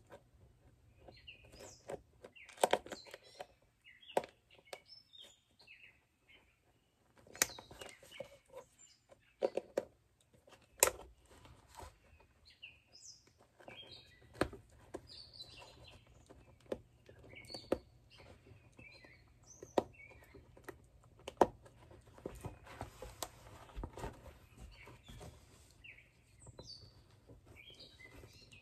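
Small birds chirping on and off throughout, over repeated sharp clicks and scrapes of a knife working around the edge of a leather shoe as it is taken apart.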